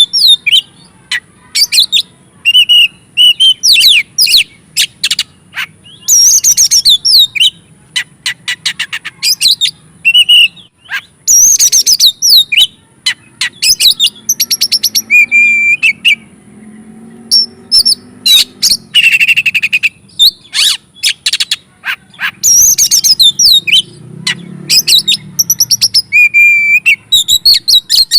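Oriental magpie-robin (kacer) singing loudly and without pause, a fast, varied song. It mixes rising and falling whistles with runs of rapid, sharp clicking notes, in the excited full song that keepers call 'gacor ngobra'.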